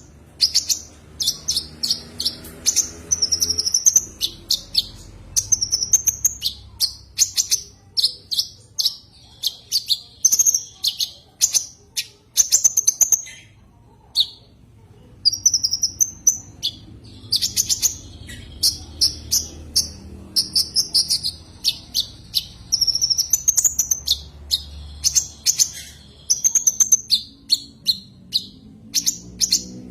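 Konin (kolibri ninja) sunbird calling: a fast, continuous run of high, sharp chirps and twittering phrases, with a brief pause about halfway through. It is the call with which the bird challenges a rival, here used as a lure.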